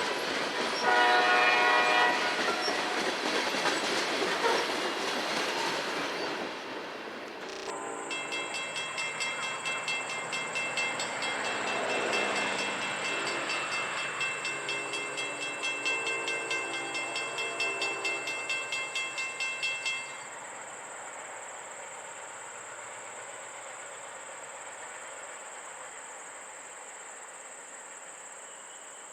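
Diesel train running, with a short horn blast about a second in. After an abrupt change near 8 s, a bell rings in quick pulses, about two a second, and stops suddenly at about 20 s, leaving a quieter steady running noise.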